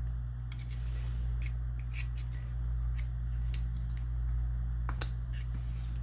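Small steel parts of a Westernfield side-by-side shotgun's action clicking and scraping as they are handled and fitted by hand while the firing pin is worked into its hole. Light clicks are scattered throughout, over a steady low hum.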